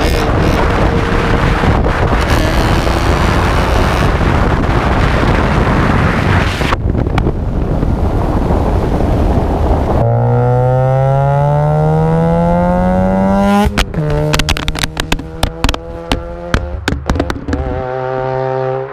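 Loud rushing wind and road noise for about ten seconds, then a car engine whose pitch rises steadily for a few seconds as it speeds up. It ends in a run of sharp knocks and clatters over a steadier engine hum.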